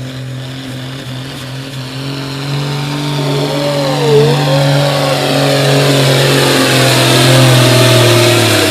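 Modified farm tractor engine running under heavy load as it pulls a weight-transfer sled, a steady hard-working note that grows steadily louder as the tractor comes down the track.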